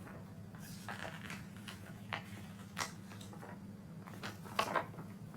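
Short rustles and clicks of a paper book being handled, a dozen or so brief sounds with the loudest cluster near the end, over a steady low hum.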